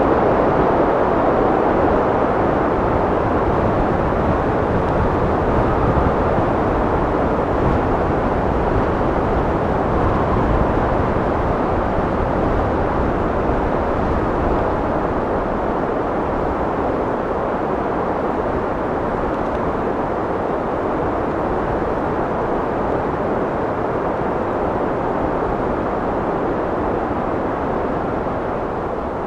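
Steady wind, a dense rushing noise without gusts or other sounds, easing off slightly in level toward the end.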